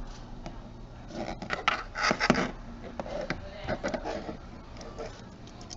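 Small plastic clicks and scraping as the camcorder's plastic cover is pried off by hand, with a flurry of louder scrapes about two seconds in.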